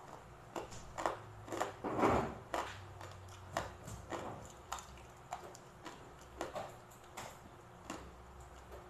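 Close-up eating sounds: irregular crunchy chewing of crispy deep-fried pork belly, with short crackles and mouth sounds coming every half second or so, the loudest about two seconds in.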